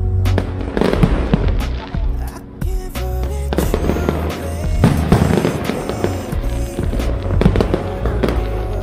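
Fireworks bursting in many irregular bangs over loud background music with a heavy bass.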